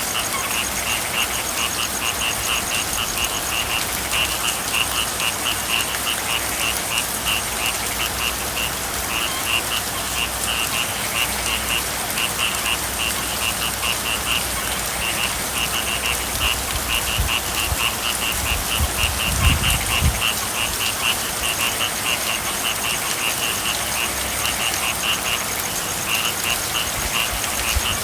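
Frogs calling in long runs of rapid pulsed notes over a steady hiss of rain. A low rumble swells briefly about two-thirds of the way through.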